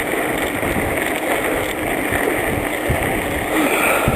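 A bicycle in motion on the trail: steady wind buffeting the microphone, with frequent small low knocks and rattles from the bike.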